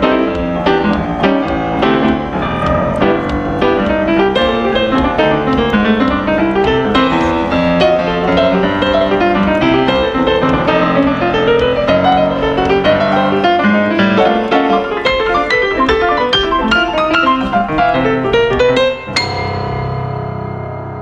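Piano playing a fast, busy passage of many notes. About two seconds before the end it stops on one sharply struck chord that rings on and fades.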